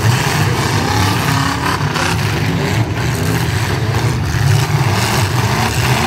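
Demolition derby car engines running and revving, rising and falling in pitch, with a sharp knock about three seconds in.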